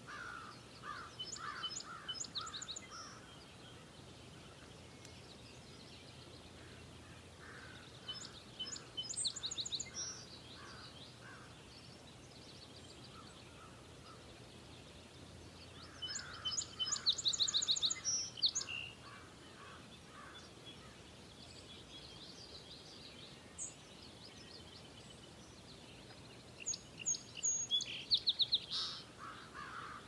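Songbirds singing in bouts of rapid trilled phrases, four bouts spaced roughly eight or nine seconds apart, over a faint steady outdoor hiss.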